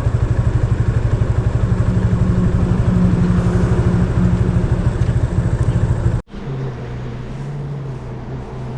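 Motorcycle engine running with an even, rapid low pulse. About six seconds in, the sound cuts off abruptly and a quieter, steadier engine hum follows.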